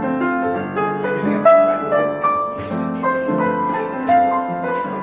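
Live jazz piano playing, with chords and melody notes changing every fraction of a second.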